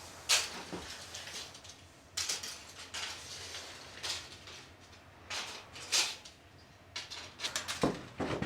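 Pencil drawing on paper: short scratchy strokes at irregular intervals, with a few light taps and clicks in between.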